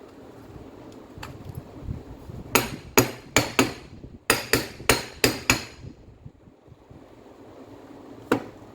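Hammer blows during the repair of an angle grinder: about nine sharp strikes in quick succession, with short ringing tails, then a single strike a few seconds later.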